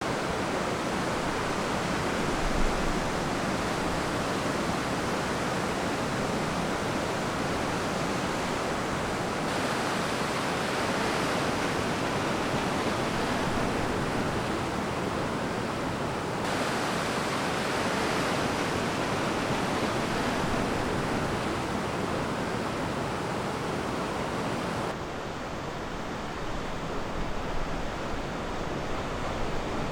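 Ocean surf washing on a beach: a steady rush of waves. The tone changes suddenly three times, and the sound is softer and duller for the last few seconds.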